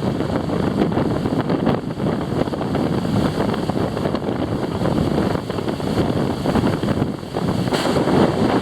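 Storm wind buffeting the microphone in heavy, uneven gusts, over the wash of wind-driven waves on a lake.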